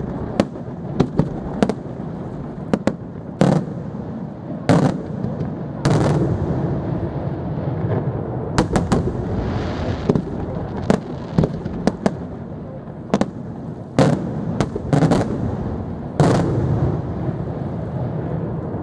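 Fireworks display: aerial shells bursting in frequent, irregularly spaced sharp bangs, sometimes several within a second, over a continuous low rumble of echoing reports. Around ten seconds in there is a brief hiss as a large glittering shell bursts.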